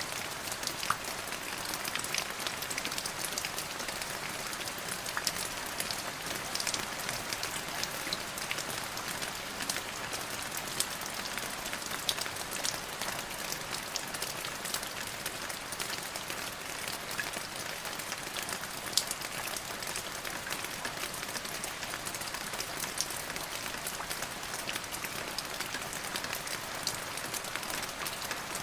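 Steady rain, with many individual drops ticking sharply on a hard surface over an even hiss.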